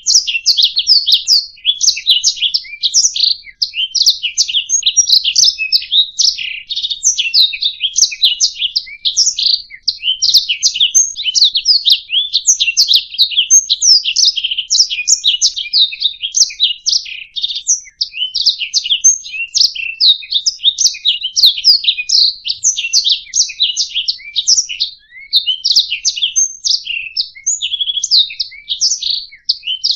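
Domestic canary singing a long, unbroken song of rapid, high chirps and trills.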